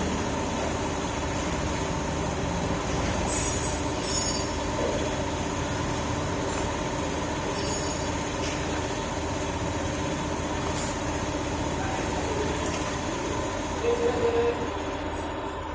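A steady mechanical running noise with a constant hum, with a few short, sharp clinks about three and a half, four and seven and a half seconds in.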